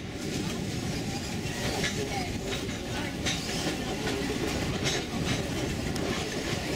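Narrow-gauge St. Kitts Scenic Railway train running along the track, heard from on board as a steady rumble and rattle, with a click now and then from the wheels on the rails.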